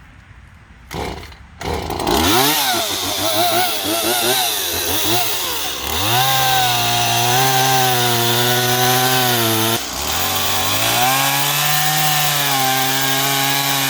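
Two-stroke chainsaw powering an Alaskan-style chainsaw mill through a log. It comes up to speed about two seconds in and revs up and down, then holds a steady high speed under load, with a brief dip near ten seconds.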